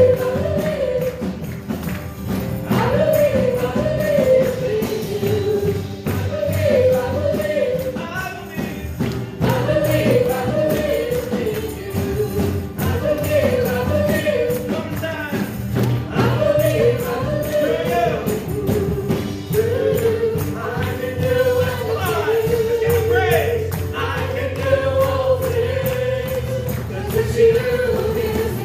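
Live gospel worship music: a choir singing a praise song over a band with drums and tambourine.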